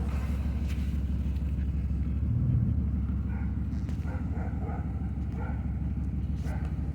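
Dodge Ram 1500 pickup's engine idling, a steady low rumble, with a brief swell about two and a half seconds in.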